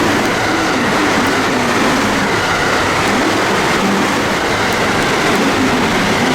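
Electric train running along a station platform: steady rolling noise of wheels on rail, with a wavering hum from the traction motors.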